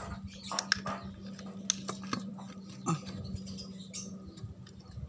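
Scattered light clicks and taps from small parts and tools being handled on a grass-cutting machine under repair, over a steady low hum.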